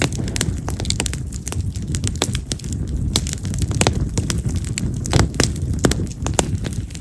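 Wood fire of split yamazakura (wild mountain cherry) logs burning, with frequent sharp, irregular crackles and pops over a steady low rumble of flame.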